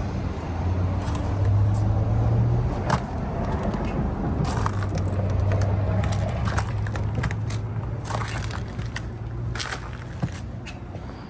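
A low steady motor hum that drifts slightly in pitch, with scattered light clicks and taps over it.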